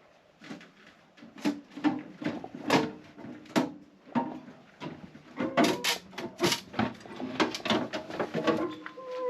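Repeated knocks and clatters of things being handled, about a dozen sharp hits spread irregularly over several seconds, like drawers and shelves being worked at a refrigerator.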